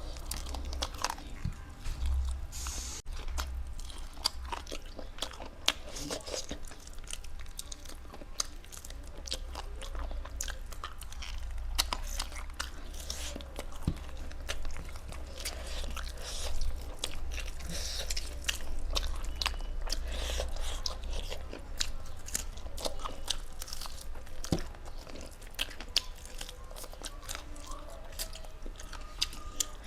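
Close-miked chewing and biting by one person eating, with frequent sharp crunches and clicks, typical of chewing through cooked chicken heads and feet. A steady low hum runs underneath.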